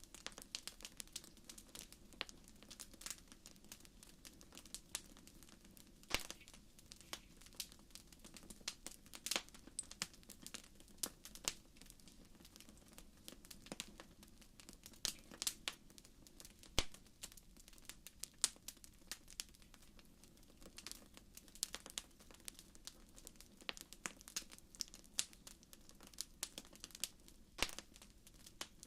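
Wood fire crackling in a fireplace: a steady stream of irregular sharp pops and snaps over a low hiss.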